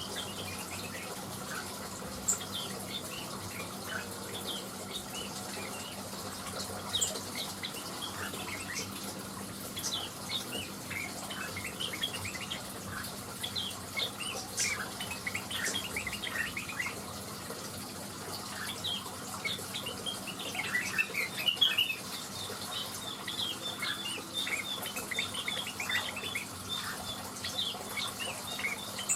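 Blue-winged leafbird (cucak wilis) singing a long run of quick, varied chirps and twitters, getting busier past the middle, over a steady background hiss.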